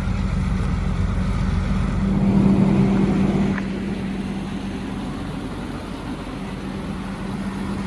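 A vehicle engine running steadily with a constant hum. It grows louder about two seconds in and eases off again after about three and a half seconds.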